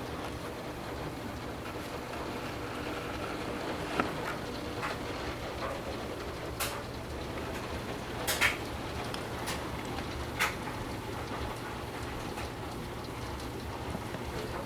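Torrential rain pouring steadily, with water spilling from overwhelmed gutters. Sharp drip taps land now and then, the loudest about eight seconds in.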